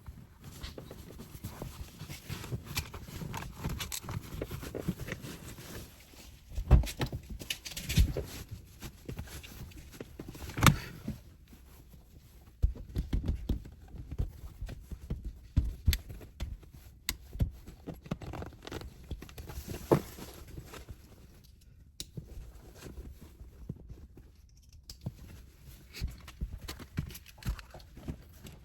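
Irregular tapping, knocking and rustling of objects being handled, with several louder thumps scattered through.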